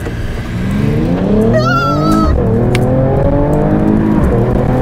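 Mercedes-AMG GT 43's turbocharged inline-six accelerating hard from a standstill in a 0–100 km/h launch, its pitch rising, dropping at an upshift about two seconds in and again about four seconds in, then climbing again. A short high-pitched wavering squeal is heard around the first shift.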